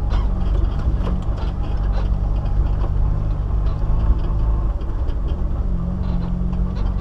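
Off-road vehicle's engine running steadily at low revs as it crawls along a rough dirt track, with faint knocks and rattles over the bumps.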